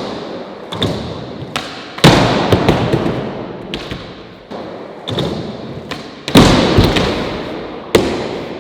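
Skateboard flip-trick attempts: the board clacks and slams down hard twice, with lighter knocks between, and each slam is followed by a fading rumble of the wheels rolling.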